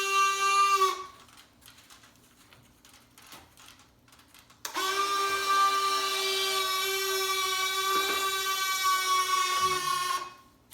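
Electric retractable landing gear of an E-flite Blue Angels F/A-18 model plane cycling: a steady, high motor whine that stops about a second in, starts again after about five seconds, runs for about five seconds and cuts off.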